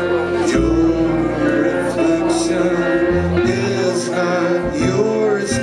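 Live band music with no singing: a long held note over shifting bass notes, with a few sharp hits now and then.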